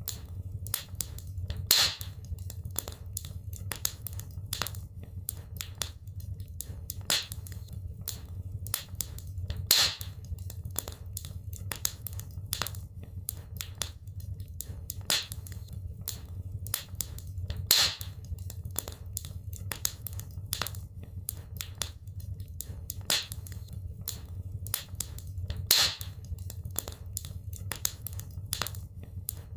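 Wood fire crackling in a fireplace: a steady scatter of small pops and snaps over a low rumble, with a louder pop about every eight seconds.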